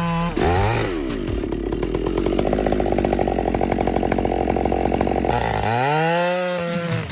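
Chainsaw revving up, then running steadily under load as it cuts through a tree trunk, then revving up and down again near the end as it comes off the cut.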